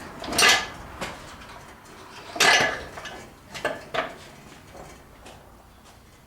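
Metal clanking: two loud clanks about two seconds apart, then a few lighter knocks, as metal parts knock together while the engine is worked free of the truck's frame.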